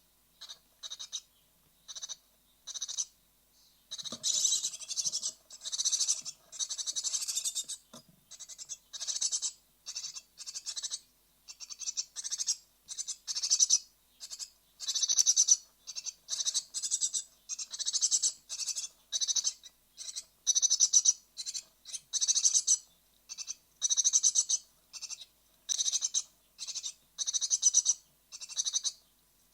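Great tit nestlings in a nest box calling with raspy, hissing calls in short repeated bursts, about two a second, the brood restless just before fledging.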